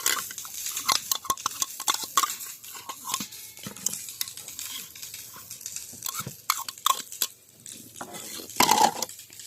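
Metal utensils clinking and scraping against a metal bowl or pot: irregular knocks and scrapes, some with a short metallic ring, and a louder rattle near the end.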